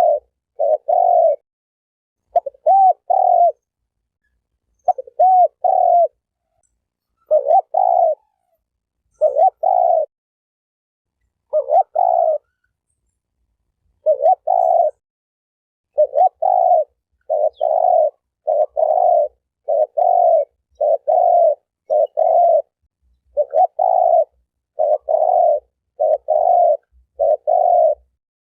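Spotted dove (terkukur, a turtle dove) cooing, each coo about half a second long. It gives short runs of two or three coos with pauses, then from about halfway through a steady, even series of coos.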